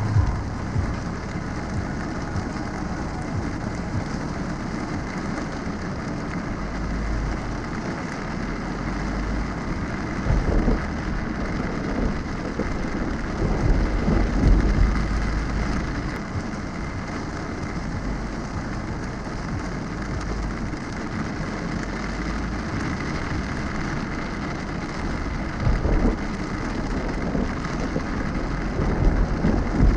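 Heavy rain falling on a car's windshield and body, a steady hiss, with deep low rumbles swelling up several times: about a quarter of the way in, around the middle, and near the end.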